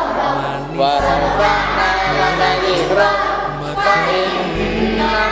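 A group of children singing together in unison over a musical accompaniment with a steady low bass line.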